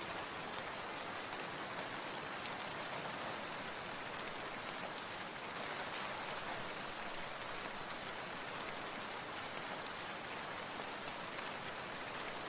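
Steady rain falling, an even hiss with fine patter of drops and no change throughout.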